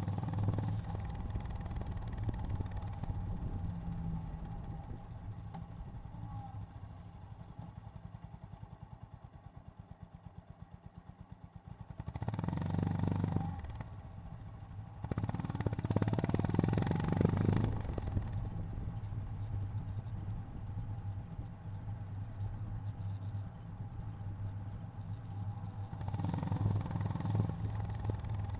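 Honda GB350's air-cooled single-cylinder engine heard from the saddle while riding. It slows to a low, slow run where the separate firing pulses can be heard, then pulls away under throttle twice, about twelve and fifteen seconds in, and settles into steady cruising with another brief surge near the end.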